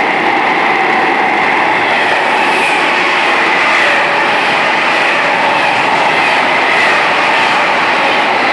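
Italo high-speed train passing at speed close to a platform in an underground station: a loud, steady rush of wheel and air noise that does not rise or fall.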